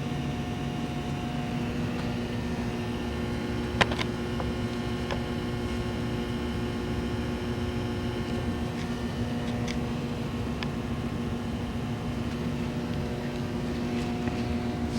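Subaru EJ207 flat-four being turned over on its starter motor for a compression test: a steady, unbroken mechanical whine and rumble, with a sharp click about four seconds in.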